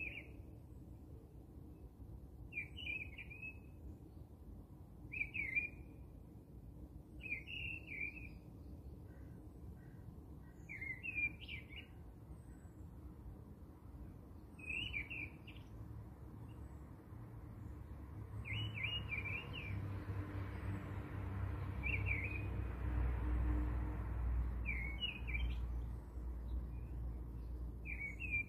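A bird chirps a short call over and over, about every two to three seconds. About two-thirds of the way in, a low rumble and a hiss rise underneath for several seconds, then ease off.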